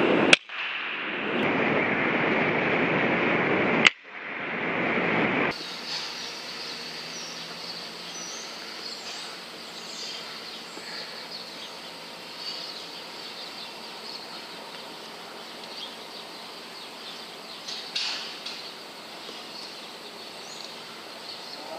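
A loud, steady rushing noise broken by two sharp air rifle shots about three and a half seconds apart. It cuts off abruptly, giving way to quiet outdoor ambience with small birds chirping now and then.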